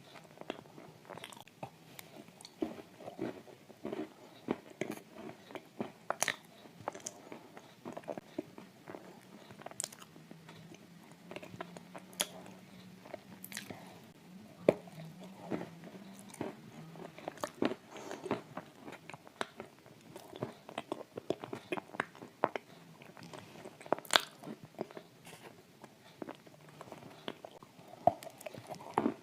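Close-up crunching and chewing of dry shortbread cookies coated in thick clay paste, with irregular crisp crunches on each bite.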